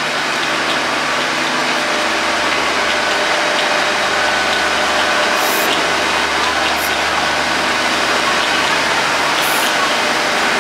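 Steady, loud drone of a standing diesel-hauled passenger train idling at the platform: an engine-and-fan hum with several steady tones over an even rush of noise.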